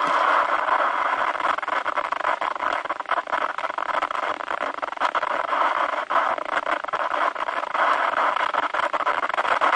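Strong wind rushing steadily, with a constant crackle of short clicks and rattles running through it.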